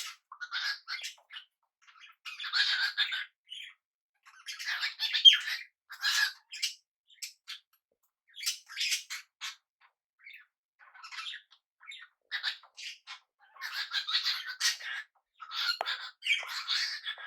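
Small pet parrots chattering and squawking in short scratchy bursts of a second or so, with brief pauses between.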